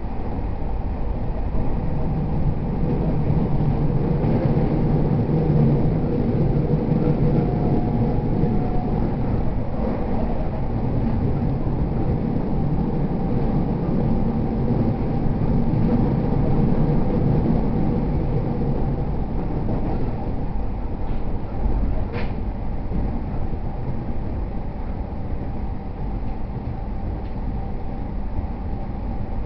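JR East E231 series 0 commuter train running between stations, heard from inside the car: a steady rumble of wheels on rail with a faint motor hum. There is one brief sharp click a little after two-thirds of the way through.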